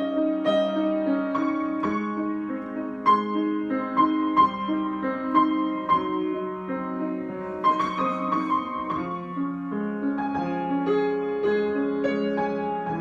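Solo piano improvisation: held chords in the middle-low register under a slow melody of single notes, with a brief flurry of higher notes about eight seconds in.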